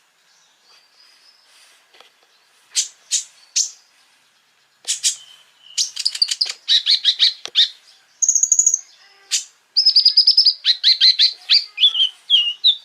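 Konin songbird singing: a few sharp high chirps, then from about five seconds in a fast, dense run of high chirps and trills that carries on to the end.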